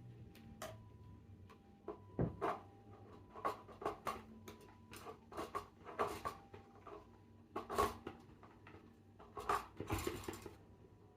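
A series of irregular light knocks and clicks, about twenty, over a faint steady hum.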